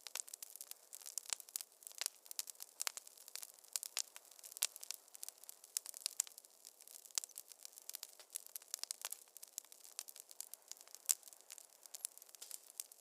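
Wood fire in a fireplace crackling: a dense, irregular run of sharp pops and snaps over a faint hiss, with no low rumble.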